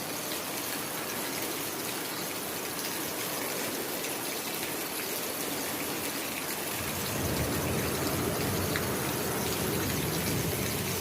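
Steady heavy rain falling. About seven seconds in, a deeper low rumble comes in under the rain and carries on.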